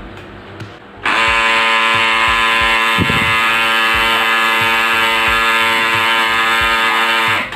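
Brother DCP-L2540DW laser printer's drive mechanism running with a loud, steady grinding buzz that starts about a second in and cuts off abruptly near the end. It is the grinding fault being traced to the fuser unit, which the technician suspects is worn.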